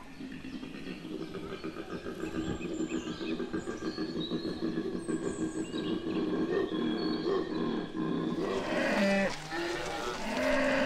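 Koala bellowing: a long, deep, rasping call that pulses in and out without a break. About eight seconds in it gives way to cattle mooing.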